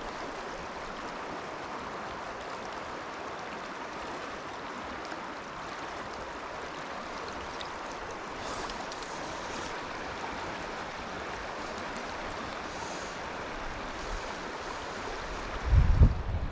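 Fast river water rushing steadily over rocks. Near the end comes a brief loud low rumble on the microphone.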